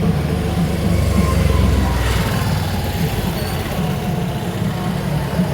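Loud festival drumming mixed with the din of a crowded procession, with a deep rumble that swells about a second in and fades after two seconds.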